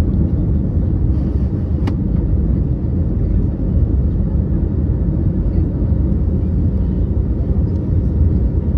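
Steady low rumble of an Airbus A321neo's engines and airflow, heard from inside the passenger cabin, with a brief click about two seconds in.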